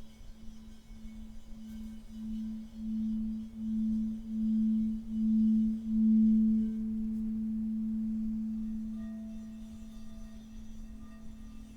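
Singing bowl sounding one low, sustained tone with a slow wavering pulse, swelling louder over the first six seconds, then holding steady and fading. A second, higher tone joins near the end.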